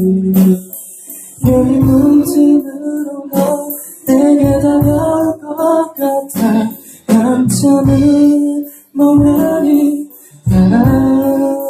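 Live band playing: guitar chords over drums and cymbals, in phrases that swell and fall back every couple of seconds. The recording sounds rough and poor in quality.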